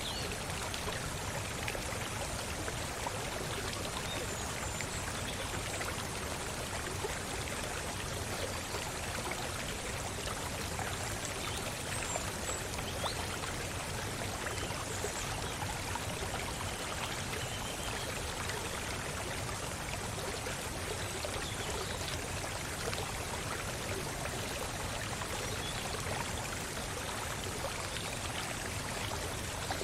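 Waterfall's steady rush of falling water, with a few faint, high, short chirps from birds now and then.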